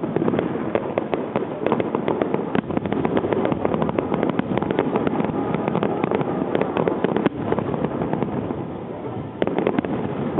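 Finale barrage of aerial fireworks: a dense, continuous rattle of bangs and crackling pops in quick succession. It eases slightly about seven seconds in, then builds again near the end.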